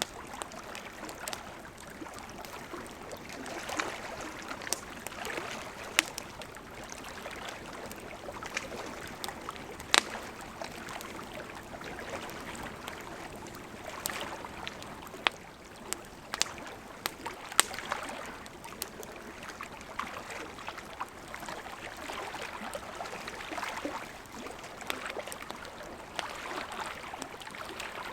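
Campfire crackling, with scattered sharp pops, over a steady wash of lake water lapping that gently swells and fades.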